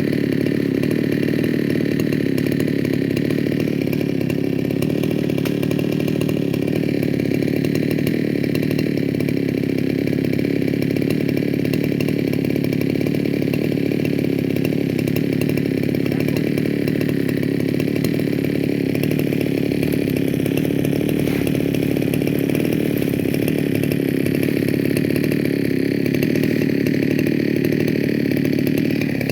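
Chainsaw engine running steadily at constant speed.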